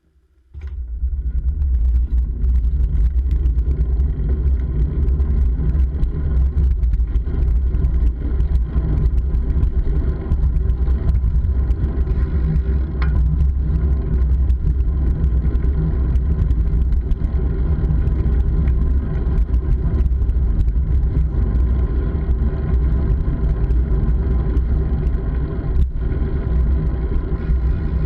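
Steady low rumble of wind and road noise on a moving rider's camera microphone, starting suddenly about half a second in.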